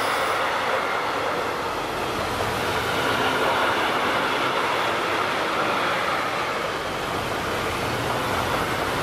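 Freight train of pocket wagons carrying semitrailers rolling past at speed: a steady noise of steel wheels on rail.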